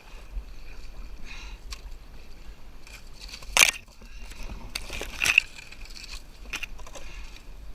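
Canoe paddle strokes in moving river water: a few sudden splashing, scraping strokes, the two loudest a little past halfway through, over a steady river rush.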